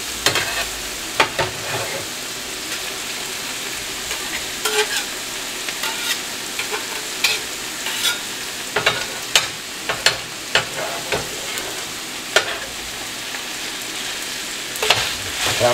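Ground beef and sliced onions sizzling on a griddle pan, a steady frying hiss broken by irregular sharp clicks and scrapes of a metal utensil against the pan.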